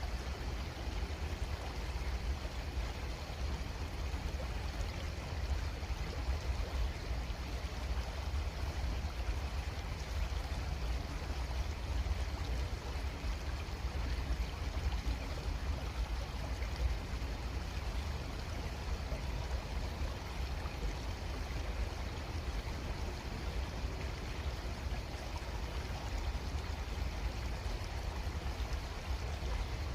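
Creek water flowing steadily: an even, continuous rushing with a strong deep rumble underneath.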